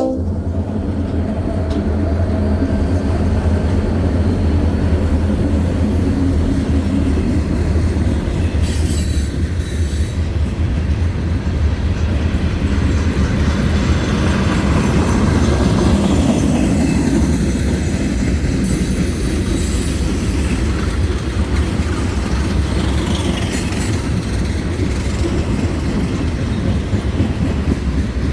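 Freight train passing close by: a steady deep engine rumble with wheels clattering over the rails, and a few brief high wheel squeals.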